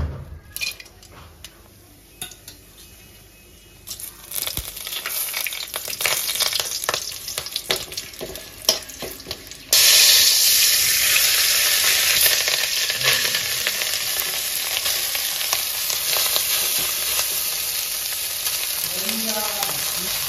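Food frying in a pan and being stirred: quiet scrapes and clicks at first, then about halfway through a sudden loud, steady sizzle that carries on to the end.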